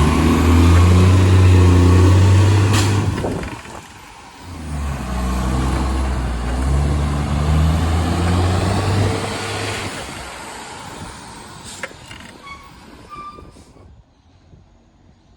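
Garbage truck's diesel engine revving hard with a massive exhaust leak, a deep loud drone that eases off briefly about three and a half seconds in, comes back up, then dies away over the last few seconds.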